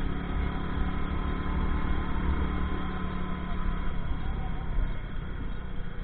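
Kuba Ege 50cc motorcycle engine running at a steady pitch, over a dense low rumble.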